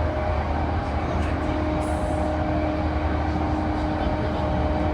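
Running sound inside a JR E235-1000 series motor car (MoHa E234-1003, Mitsubishi full-SiC MOSFET VVVF) at steady speed: low wheel-and-rail rumble with a steady whine held at one pitch.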